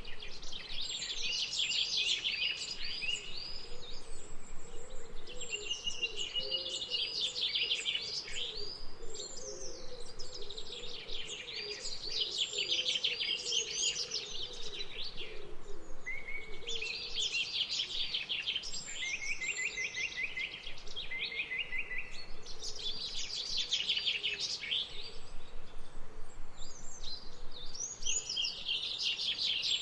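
Songbirds singing, overlapping phrases of rapid high chirps and trills that come in bouts every few seconds. A fainter, lower wavering call runs beneath them in the first half.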